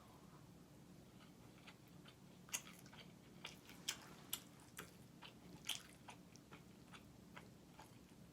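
Close-miked eating: irregular soft, wet mouth clicks and smacks of chewing, the sharpest about two and a half and four seconds in, over a faint steady low hum.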